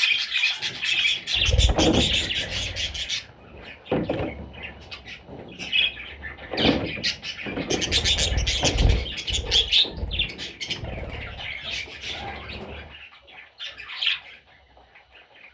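Budgerigar chicks chirping, a rapid dense run of calls for about the first three seconds, then scattered chirps. Low thumps and rustles of movement come in between, and it grows quieter near the end.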